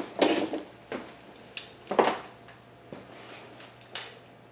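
Steel valve cover bolts clinking as they are dropped and handled in a container: four separate sharp metallic clinks, each ringing briefly.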